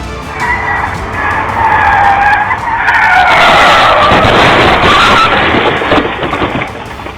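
Car tyres screeching in a long skid. The squeal wavers in pitch, is loudest in the middle, and cuts off suddenly near the end.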